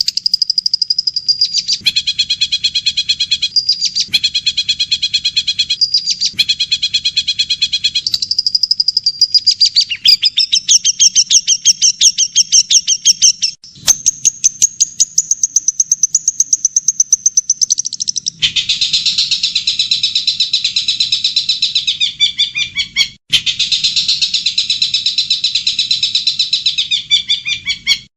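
Recorded songbirds singing fast, high-pitched chattering trills of rapidly repeated notes, spliced in segments that change abruptly several times, most sharply about 18 seconds in.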